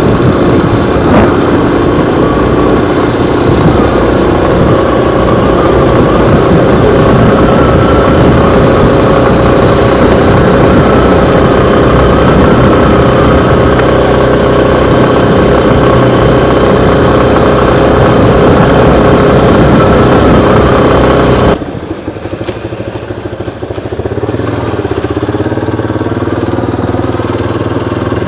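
Yamaha Lander 250 single-cylinder motorcycle engine running at steady revs under a loud rush of wind and road noise. About 21 seconds in the sound drops suddenly to a quieter, lower engine hum.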